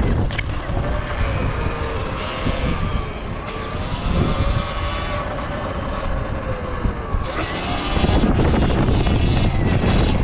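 Sur Ron electric dirt bike's motor whining while riding, its pitch rising and falling with speed, over heavy wind buffeting on the microphone.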